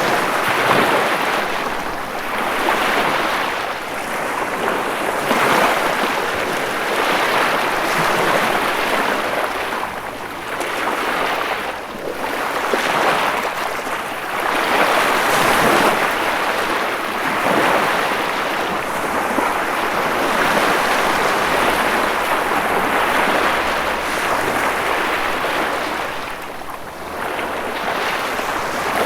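Ocean waves washing and breaking on a shore, a continuous rushing surf that swells and eases every few seconds.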